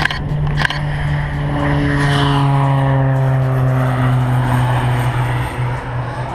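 Propeller airplane flying past, its engine and propeller drone sliding slowly down in pitch as it goes by.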